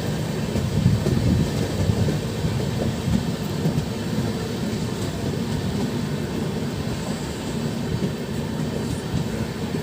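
Steady rumble of a moving train's wheels on the track, heard from aboard.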